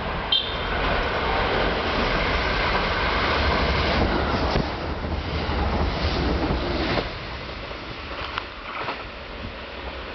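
A Kintetsu limited express electric train running by on the track, a loud, even rushing and rumbling that falls away about seven seconds in.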